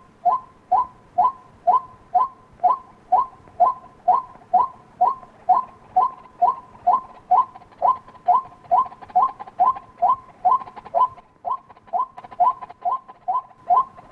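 White-breasted waterhen calling: a steady, rhythmic string of short two-toned calls, about two a second.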